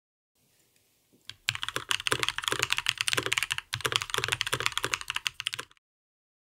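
Fast typing on a custom mechanical keyboard with Gazzew LT linear switches, ePBT PBT keycaps and an aluminum plate, the case damped with thin foam. A dense run of keystrokes begins about a second and a half in, with a brief pause midway, and stops near the end.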